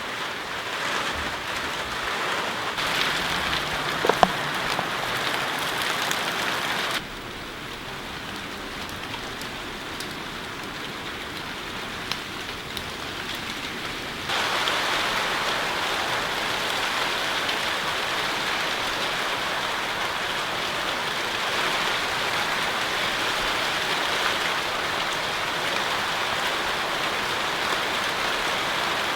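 Steady rain falling and pattering on surfaces, an even hiss. The level drops suddenly about seven seconds in and jumps back up about halfway through, with a sharp tap about four seconds in.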